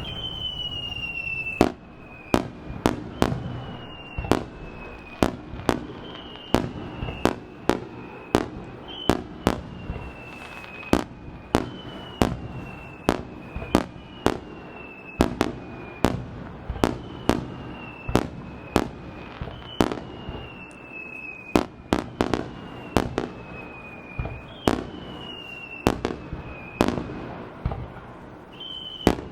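Aerial fireworks shells bursting in quick succession, sharp bangs about one to two a second. Between them come repeated whistles, each sliding slightly down in pitch.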